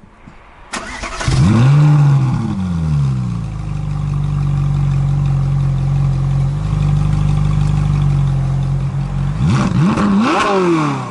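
Lamborghini sports car engine starting: it cranks briefly, catches with a sharp rev flare that falls back to a steady idle, then takes two quick throttle blips near the end.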